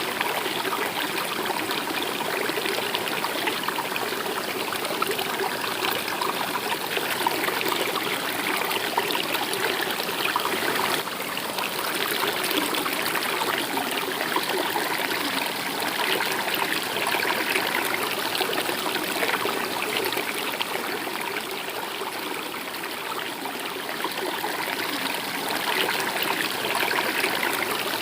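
Stream of water running steadily, a continuous rush and trickle of flowing water.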